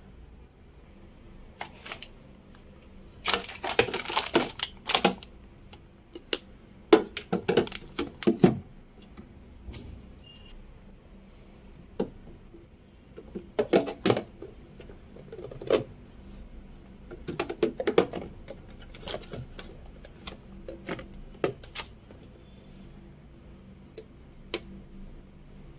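Clicks, knocks and rustles of groceries, plastic containers and packets being handled and set on refrigerator shelves. They come in short flurries a few seconds apart, the busiest about four seconds in and near the middle.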